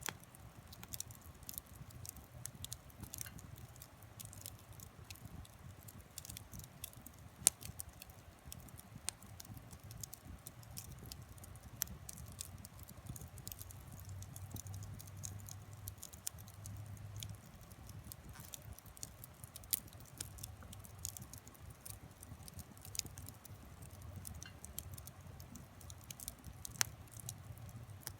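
Wood fire crackling in a kamado-style camp stove: frequent small pops and snaps, with a few sharper cracks, the loudest about seven and a half seconds in, over a low steady rumble.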